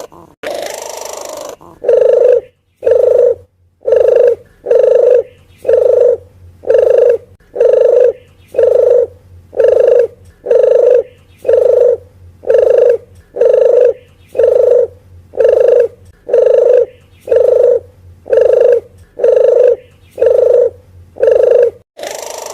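Lure recording of a puter dove (the 'puter geni' form of collared dove) calling: one short, low coo note repeated evenly about once a second, some twenty times. A longer, harsher call comes at the start and again at the very end.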